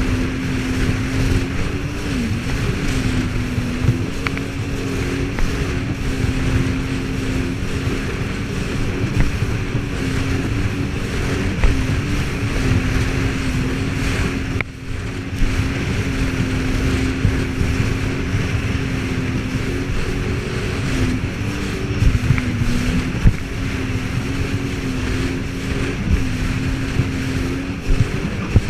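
Jet ski engine running at a steady high speed, with wind buffeting the microphone and water rushing. The engine pitch dips briefly twice, and the sound drops away for a moment about halfway through.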